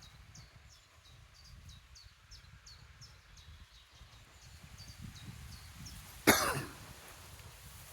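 A small songbird singing a long run of short, high, repeated notes, about three a second, which stops about six seconds in. Just after, one sudden loud sharp noise, much louder than the song, with a low rumble underneath throughout.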